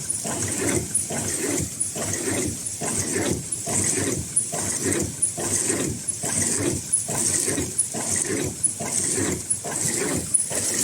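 Automatic N95/FFP2 mask production line running at speed, its mechanism cycling with a repeating whoosh-and-clack about once every 0.9 seconds.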